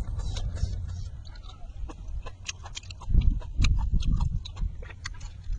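Close-up eating sounds: people chewing cooked cow-head meat with scattered wet mouth clicks and smacks.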